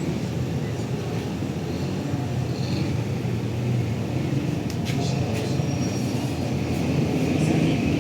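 A running vehicle's steady low rumble, with a few sharp clicks about five seconds in.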